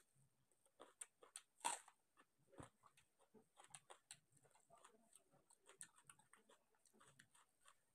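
Faint chewing and mouth sounds of a person eating rice and chicken curry by hand, with soft clicks and rustles as fingers mix rice on the plate; one louder click comes a little under two seconds in.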